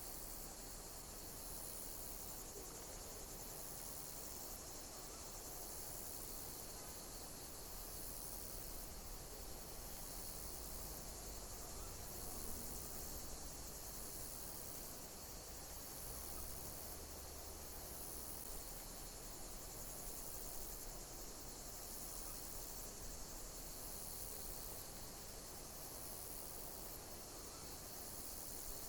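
Insects chirping in a dense, steady, high-pitched chorus, with a pulse that repeats about every two seconds.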